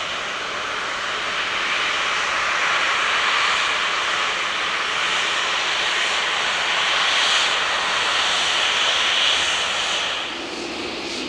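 Jet airliner engines running: a steady rushing noise that grows louder through the middle and falls away about ten seconds in.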